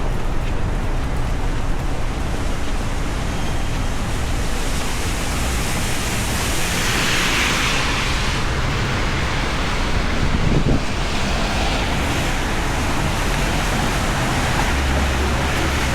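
Heavy rain falling steadily on a city street, a constant hiss. A louder hiss swells and fades between about six and nine seconds in.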